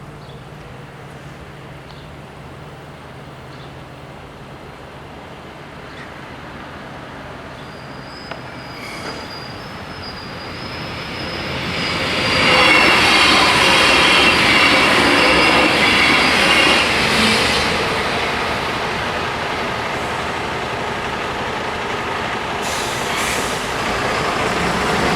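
LINT 41 diesel railcar approaching and passing over a level crossing: the sound builds over about ten seconds, peaks as the train goes by with high squealing tones from the wheels, then stays loud as it runs on past.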